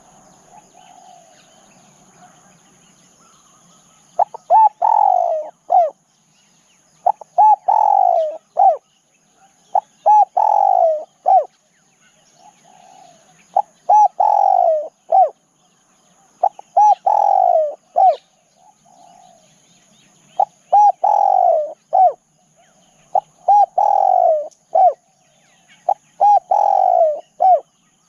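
Spotted dove cooing: after a quiet start, about eight repeated phrases roughly three seconds apart, each a few short clipped coos followed by a longer falling coo.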